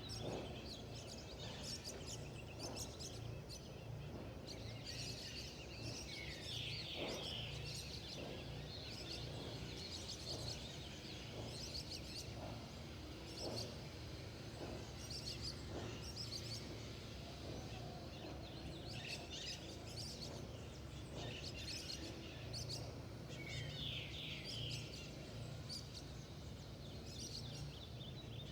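Wild birds chirping and calling, with many short high chirps scattered throughout and a brief cluster of calls twice, over a steady low background rumble.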